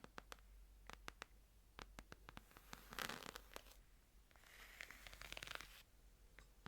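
Faint ASMR handling of a Bible: two soft rustling swishes of paper, like pages turning, in the middle, among scattered light taps and clicks.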